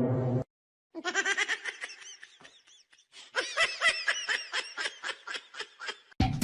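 High-pitched laughter in a rapid run of short giggles, several a second, for about five seconds.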